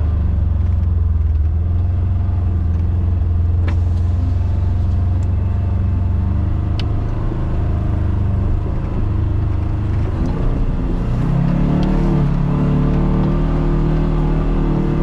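Polaris Xpedition side-by-side's engine running under way with a steady low drone. About eleven seconds in, its pitch climbs higher as it speeds up. A few faint sharp clicks sound along the way.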